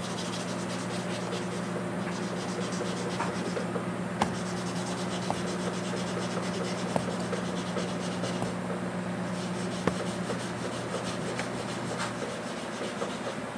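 Sandpaper rubbing steadily over the truck's hood, with a few sharp ticks and a steady low hum under it that fades near the end.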